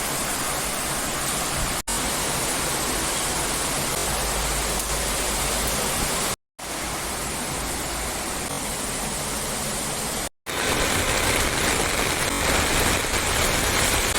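Heavy rain pouring down, a steady hiss. It cuts out completely twice for a moment, and is a little louder and fuller after the second break.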